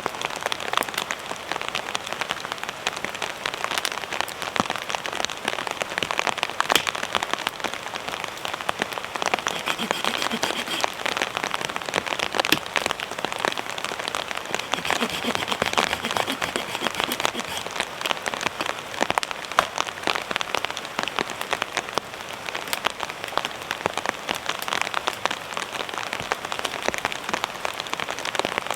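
Heavy rain falling steadily on a shelter's fabric, a dense patter of countless drops.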